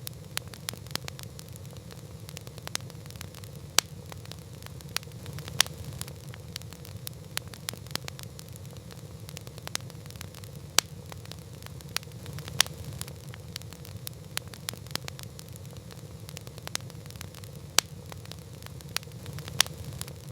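Campfire crackling: irregular sharp pops and snaps of burning wood, a few much louder than the rest, over a steady low rumble of the flames.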